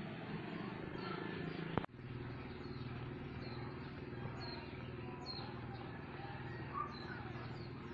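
About two seconds in, a click and an abrupt cut in the sound. After it, small birds chirp in short, high, falling calls, repeated every second or so, over a steady low hum.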